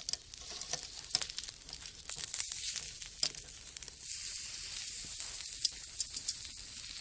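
Wood fire in a homemade brick rocket stove crackling and hissing, with frequent sharp pops and snaps.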